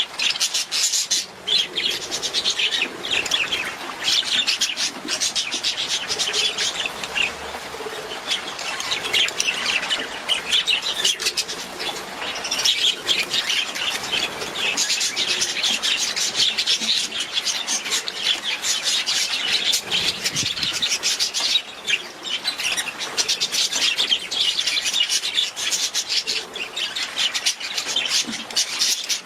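Budgerigars chattering and warbling continuously, a dense stream of rapid high chirps and twitters from several birds at once.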